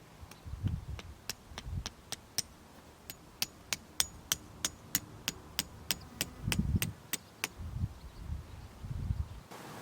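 Tent pegs being hammered into the ground: a run of sharp, evenly spaced taps at about three a second, with a few duller thuds among them. Near the end it cuts to wind noise.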